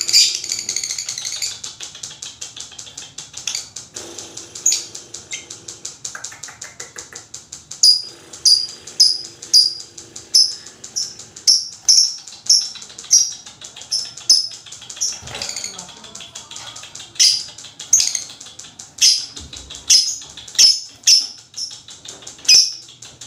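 Lovebird calling: a dense, high trill in the first second or so, then from about eight seconds in a steady run of short, sharp, high-pitched calls, roughly two a second.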